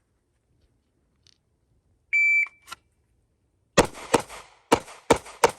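A shot timer's start beep, then five handgun shots fired in quick succession, about a third of a second apart with a slightly longer pause after the second shot.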